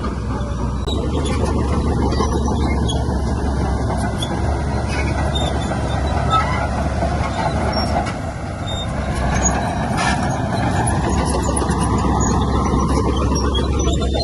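Diesel engine of heavy earthmoving equipment running steadily under load, with a deep hum. The engine note dips about eight seconds in and then climbs again.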